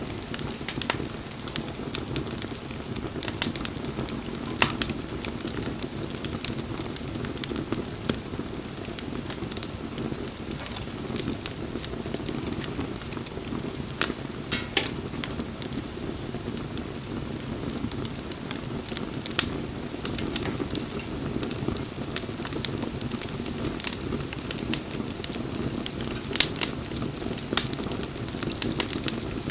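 Wood campfire burning: a steady low rush with scattered sharp crackles and pops, a few louder pops about fifteen and twenty-seven seconds in.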